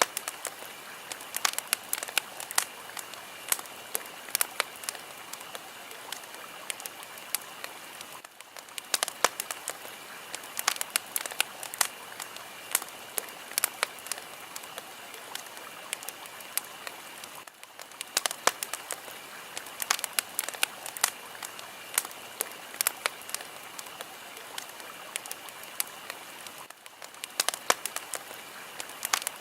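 A fire crackling: a steady hiss with many sharp pops and snaps scattered through it. The level dips briefly about every nine seconds, as if the recording repeats.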